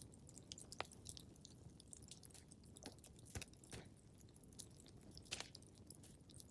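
Wood fire in a fireplace crackling quietly: irregular sharp pops and snaps over a low, steady hiss of burning, with a stronger pop about three and a half seconds in and another about five seconds in.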